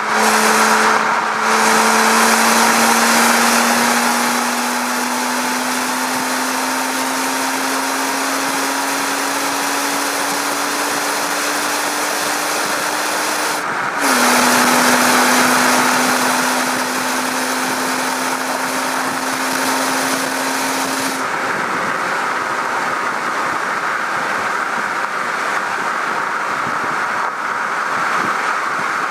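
BMW E92 325i's N53 3.0-litre straight-six on its stock exhaust, pulling hard with an engine note that climbs slowly in pitch. About fourteen seconds in, the pitch drops abruptly at an upshift, then climbs again. The note dies away about seven seconds later, leaving heavy wind and tyre rush on the car-mounted camera.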